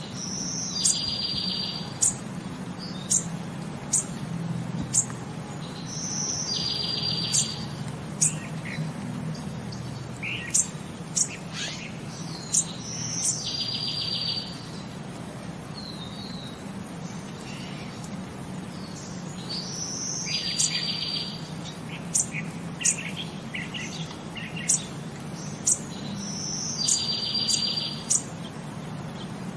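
Songbird calls: a short high note followed by a buzzy trill, repeating about every six and a half seconds, with many short sharp chirps in between over a low steady hum.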